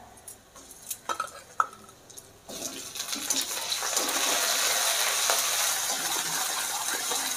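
Tomato pieces and ginger-garlic paste going into hot mustard oil with frying onions in an iron kadai. A few light knocks, then about two and a half seconds in a loud sizzle starts suddenly and keeps going as a metal spatula stirs.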